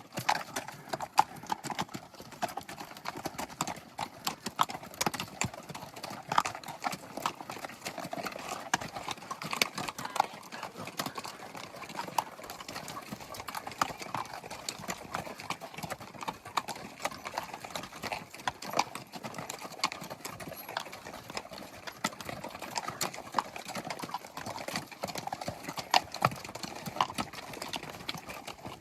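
Footfalls on hard, stony ground: a continuous, irregular run of sharp clicks and knocks.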